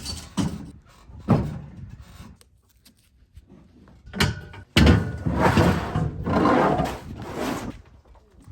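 A few sharp knocks and clunks, then about three seconds of loud rattling and scraping.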